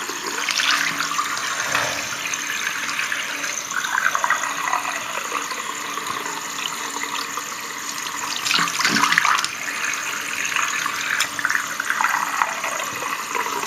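Cold water running from a bathroom tap and splashing over a block of frozen fish ice as it is thawed, the splashing swelling louder now and then.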